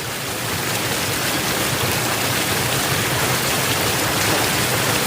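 Small forest waterfall rushing steadily, an even wash of falling water.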